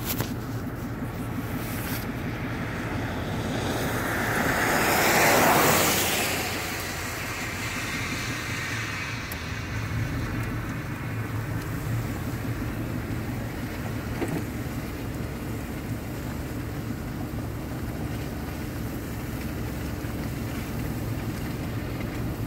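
Steady road noise of a car being driven, with the engine and tyres humming low throughout. A louder rush swells and fades about five to six seconds in.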